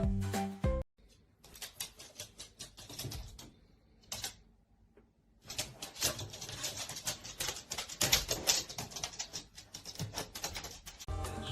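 Rapid, irregular clicking and tapping in two long stretches, broken by a short pause near the middle.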